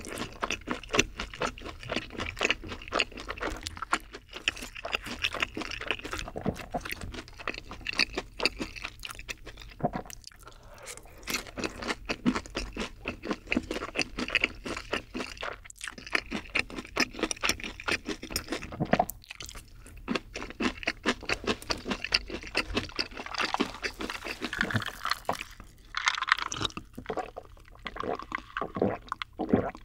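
Close-miked chewing of a mouthful of creamy pasta: a steady run of small wet mouth clicks and smacks. Near the end, gulps of a drink from a glass with ice.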